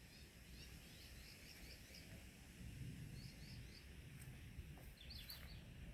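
Faint bird calls: small groups of short, high chirps in a quiet outdoor background.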